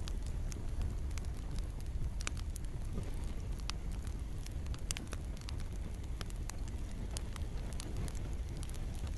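Campfire crackling, irregular sharp pops and snaps over a steady low rumble of burning, with a soft hiss of rain.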